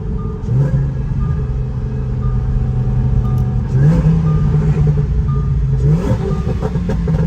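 Twin-turbo Lamborghini engine running loud while the car is geared down, its note stepping up in pitch about four seconds in and again about six seconds in, with some crackle around the shifts.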